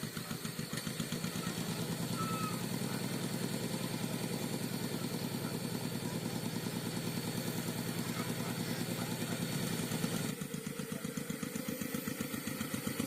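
Rice-field tractor's engine running with an even, rapid beat, louder from about a second in and easing off about ten seconds in.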